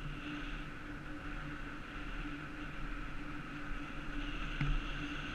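Electric bike motor running steadily under way, a constant-pitch whine over low road and wind rumble, muffled through a GoPro waterproof housing. A single click about four and a half seconds in.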